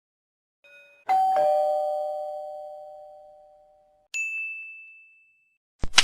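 Two-note doorbell chime, a higher note then a lower one, ringing out over about three seconds. About four seconds in comes a single short higher ding, and near the end a loud noisy burst begins.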